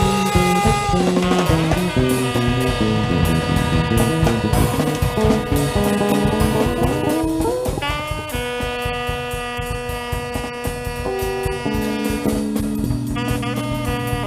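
Jazz band playing: a horn plays long held notes over a moving bass line and drums, sliding up into a long sustained note about halfway through.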